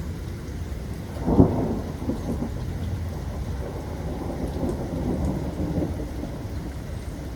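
Thunderstorm: a sharp, loud thunderclap about a second and a half in, followed by rolling rumble, over steady rain.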